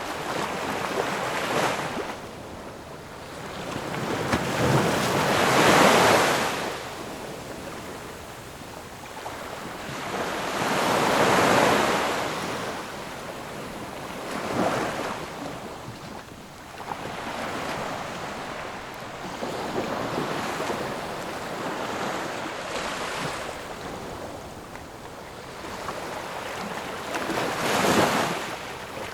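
Ocean waves washing ashore, each one swelling into a surge of surf and draining away, several seconds apart, over a constant wash of water.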